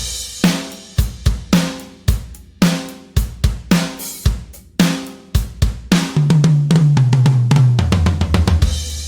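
Sampled acoustic drum kit from the Toontrack EZdrummer 3 software instrument, starting suddenly and playing a groove of kick, snare, hi-hat and cymbals. About six seconds in, it plays a fill that steps down in pitch across the toms.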